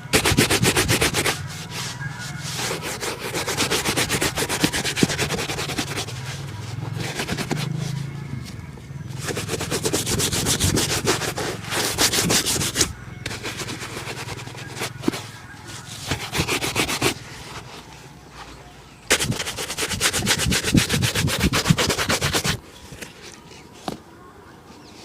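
A leather shoe being buffed to a shine with quick back-and-forth rubbing strokes, in bouts of a few seconds with short pauses between them.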